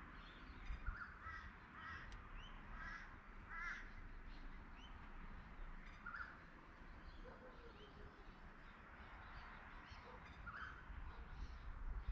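A crow calling with a series of short harsh caws, several close together in the first few seconds and then single ones later. Fainter high chirps of smaller birds sound throughout.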